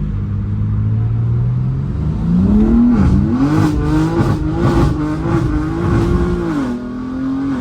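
BMW M4 Competition's twin-turbo inline-six engine, heard from the cabin, running steadily and then revving up sharply about two seconds in. The revs rise and dip several times before easing back to a lower, steady note near the end.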